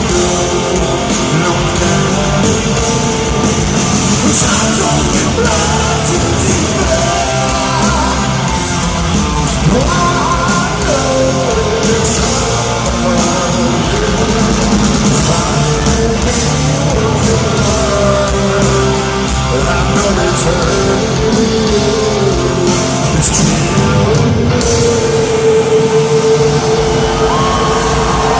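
Live heavy metal from a concert PA: distorted electric guitars, drums and sung vocals played loud and continuously, with the echo of a large hall.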